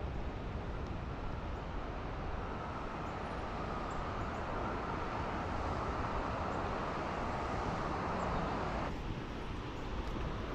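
Steady rush of flowing creek water and waterfall, with wind rumbling on the microphone. The rushing drops away abruptly near the end.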